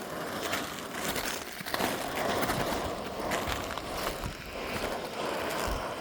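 Footsteps crunching over fresh, brittle lava rock, a steady run of small crackles and crunches as the crust breaks underfoot.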